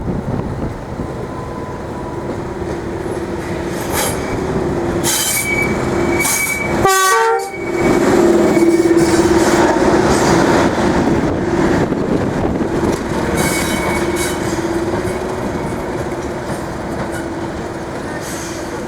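Class 31 diesel-electric locomotive pulling away under power, its engine note steady. It is loudest about eight seconds in, then slowly fades as the locomotive draws off.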